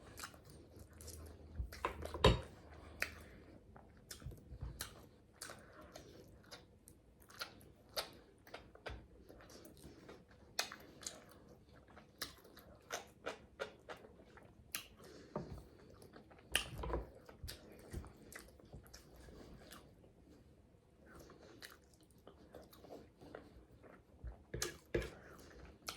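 Close-up chewing and lip-smacking while eating salmon: a string of short mouth clicks and smacks at irregular intervals, with a few louder ones about two seconds in and around seventeen seconds.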